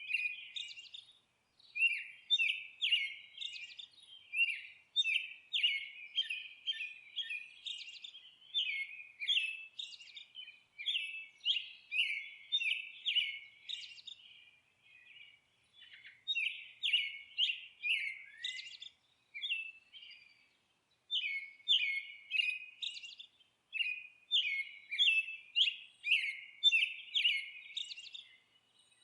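Songbirds chirping and twittering in quick runs of high notes, with short pauses about halfway through and again about two-thirds in.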